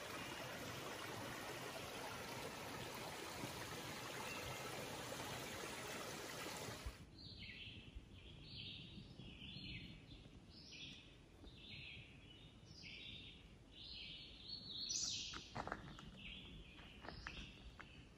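A steady rushing noise for about seven seconds, then a sudden cut to quiet woods where birds sing short, high phrases repeated over and over, with a few faint clicks near the end.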